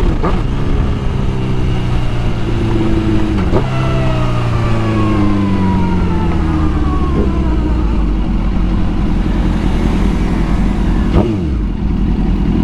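On-board sound of a Suzuki GSX-R 1000 inline-four sport bike engine under way, changing gear near the start and about three and a half seconds in, then easing off with its note slowly falling, with another gear change or blip about eleven seconds in.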